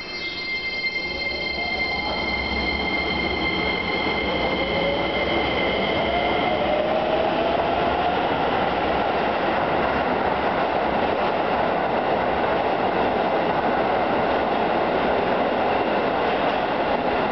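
Keisei electric commuter train departing an underground station platform. A whine rises in pitch as it picks up speed, over steady high tones in the first several seconds. Wheel and rail noise builds into a steady rumble as the cars run past, echoing in the underground platform.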